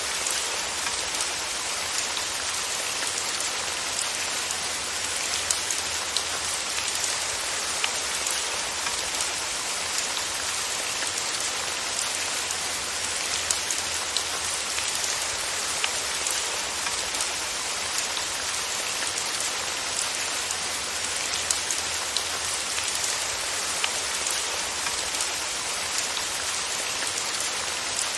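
Steady rain falling: an even hiss with scattered sharp ticks of individual drops and a faint low rumble underneath.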